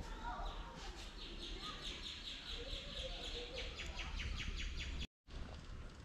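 A bird calling in a fast, even series of high chirps, about five a second, over a low rumble of wind on the microphone; it cuts off suddenly near the end.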